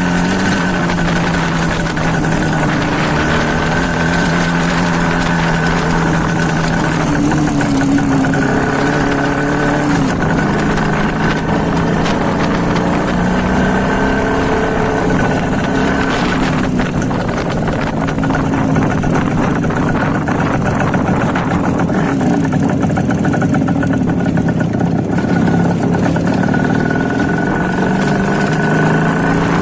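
IZh Planeta 5's single-cylinder two-stroke engine running loud with the muffler baffles pulled out, its speed rising and falling several times.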